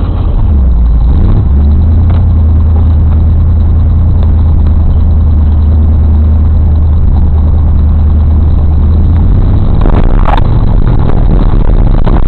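Off-road 4x4 engine pulling hard under load: it revs up about a second in and holds a steady, loud drone at high throttle. Near the end the drone eases and a few sharp knocks are heard.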